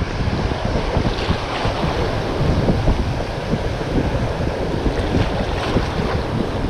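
Strong wind buffeting the microphone in uneven gusts, with surf washing on the shore underneath.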